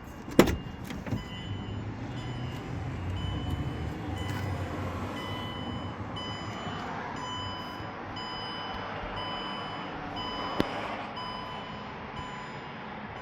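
A van door's latch clacks sharply, then an electronic warning chime beeps in a steady, evenly spaced series over a low hum.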